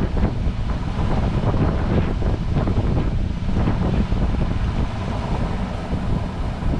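Wind buffeting the microphone on a boat at sea: a steady, rough, low rumble that flutters in strength.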